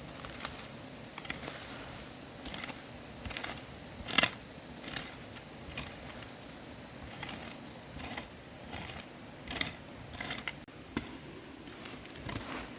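Irregular light clicks and knocks, one louder knock about four seconds in, over a steady high-pitched whine that stops about eight seconds in.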